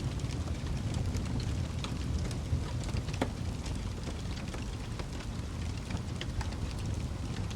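Wood fire crackling in a fireplace: a steady low rumble of the flames with scattered sharp pops and snaps, a few each second.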